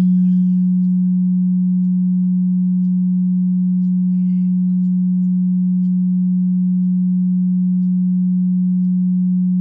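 Steady low-pitched pure tone from a tone generator, held unchanged at an even level: a test tone played to check the lower limit of human hearing.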